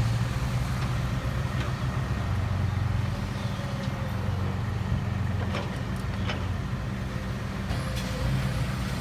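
Heavy diesel dump truck engine running steadily with a low rumble, with a few light clicks about halfway through.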